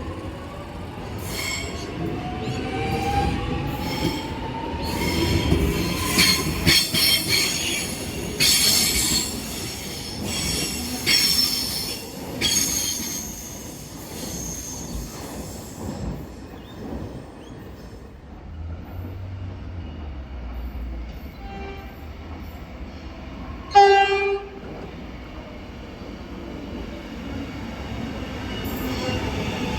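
X'Trapolis electric train at a station, its traction motors whining upward in pitch as it gathers speed, then a spell of clattering, screeching wheel-on-rail noise. A short horn blast sounds about four-fifths of the way through.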